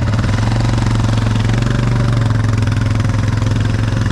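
ATV engine running at a steady pitch, close to the microphone.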